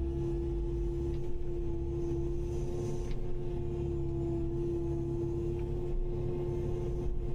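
Kubota KX080-5 excavator's diesel engine running steadily under work, a low rumble with a constant high whine over it and a faint knock about three seconds in.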